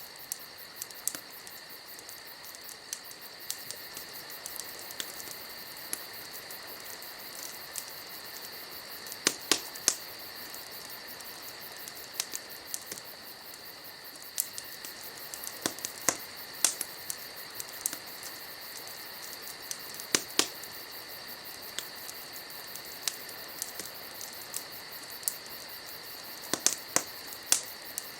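Wood fire crackling, with sharp pops at irregular moments, some in quick clusters of two or three. Behind it, night insects chirp steadily.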